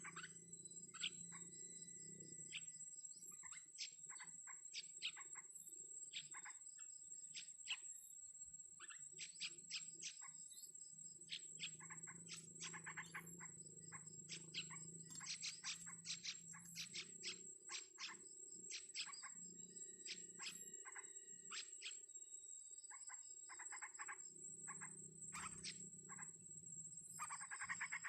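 Faint chirping of small wild birds: many short, sharp chirps, with bursts of rapid pulsed calls several times, over a steady thin high-pitched whine.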